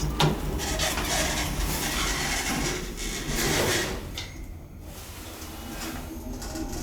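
Automatic elevator doors sliding, with the noise of a station hall behind them. The high-pitched part of that noise drops away suddenly about four seconds in, as if the doors had shut.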